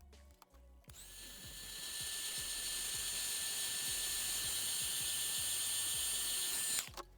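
A small high-speed power tool running for about six seconds: a steady high whine over hiss that rises in pitch as it spins up about a second in and cuts off suddenly near the end. Background music with a regular beat continues underneath.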